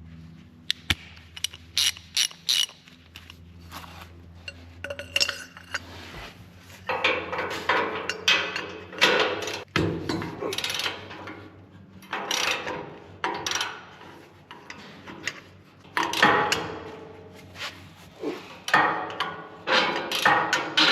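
Hand ratchet wrench clicking as the bumper's mounting bolts are loosened: a few scattered clicks and clinks at first, then repeated runs of quick ratchet strokes from about seven seconds in.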